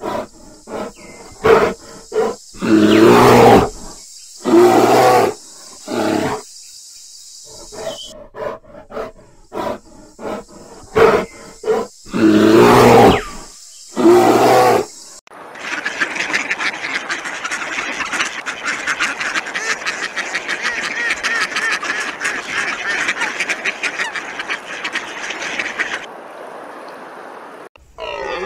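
Black bear growling and grunting: a set of short calls and one longer growl, the same sequence heard twice. About halfway through it gives way to a dense, rapid rattling noise lasting about ten seconds.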